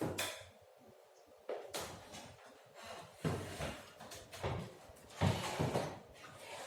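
Handling noises: a series of knocks and scrapes, as of objects being moved and set down on a workbench, the longest near the end.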